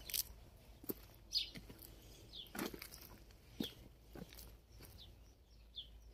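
Birds chirping: short, falling chirps at irregular intervals, with a few soft knocks in between.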